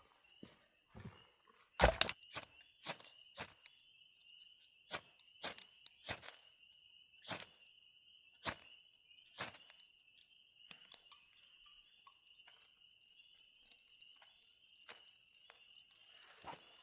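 A series of sharp clicks and knocks, about a dozen at uneven intervals, the loudest near the start, dying out after about ten seconds. Behind them runs a steady high insect drone.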